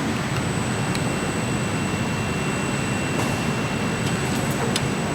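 Factory machinery running steadily with a thin high whine over it and a few light ticks.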